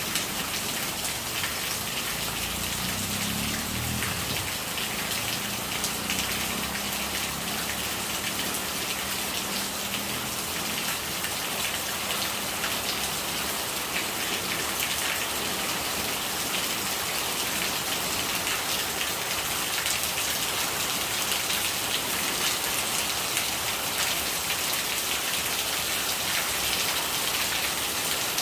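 Steady rain, dense drops striking a surface, with rainwater running and gurgling.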